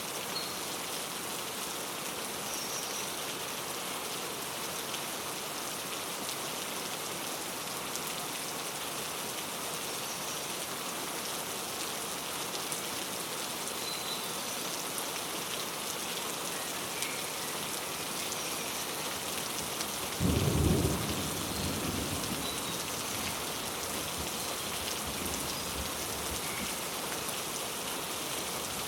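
Steady rain pattering, with scattered faint bird chirps. About two-thirds of the way through, a brief low rumble rises over it and fades within a couple of seconds.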